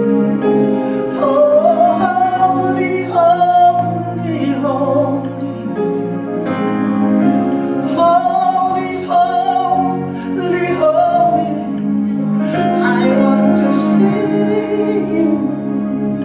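Slow worship music: a voice singing long, gliding notes without clear words over steady held chords.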